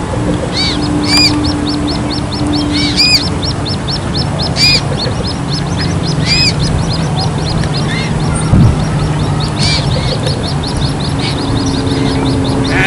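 Coot chicks peeping: a fast run of high, thin peeps, several a second, with louder single calls scattered through, over low wind-like noise.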